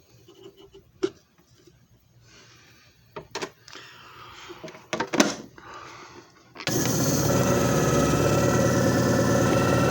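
A few clicks and knocks of handling, then about two-thirds of the way in a JFJ Easy Pro disc repair machine's motor switches on suddenly and runs with a steady hum.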